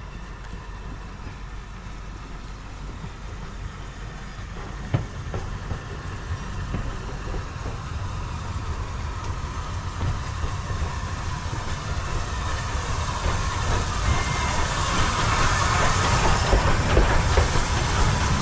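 Steam train running on the rails, wheels clicking over the rail joints, the rumble growing steadily louder.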